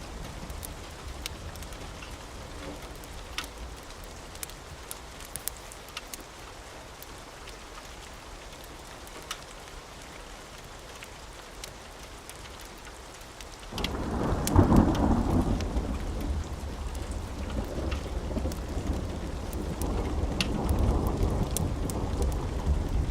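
Steady rain with scattered sharp crackles. About fourteen seconds in, thunder breaks in suddenly and loudly, then keeps rumbling.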